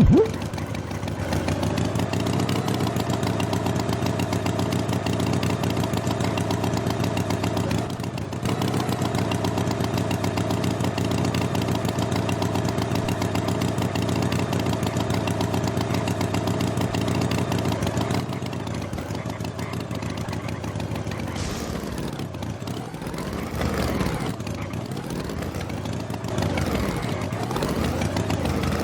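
Engine running steadily, then from about two-thirds of the way in revving up and down several times.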